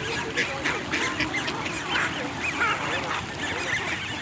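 A flock of birds calling over one another in a dense, steady chorus of many short overlapping calls.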